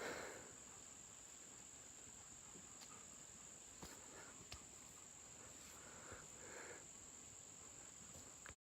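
Faint, steady, high-pitched drone of insects in the woods, with a few soft rustles; it cuts off abruptly near the end.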